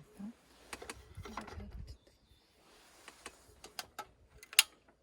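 Irregular small mechanical clicks and rattles of gear being handled, with the sharpest click near the end.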